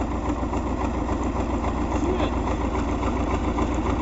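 MTZ (Belarus) tractor's diesel engine idling steadily.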